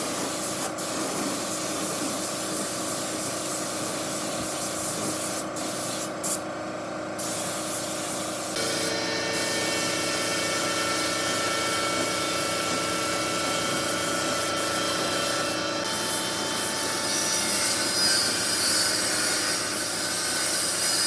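A workshop power tool running steadily, a hiss with a faint whine over it, changing tone about eight and a half seconds in.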